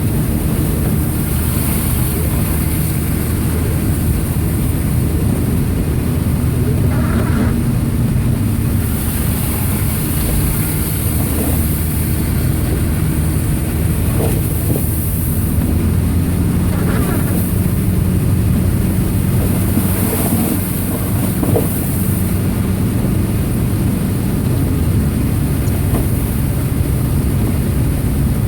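2002 Subaru Impreza wagon's 2.5-litre flat-four engine running steadily while driving through snow, a low drone with constant road and tyre noise and a steady hiss.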